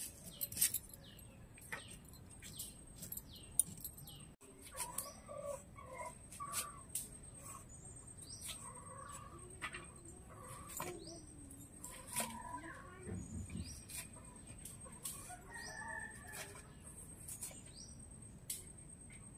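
Small birds chirping repeatedly: many short, quick downward-sliding calls, with sharp clicks scattered throughout and a thin steady high tone behind them.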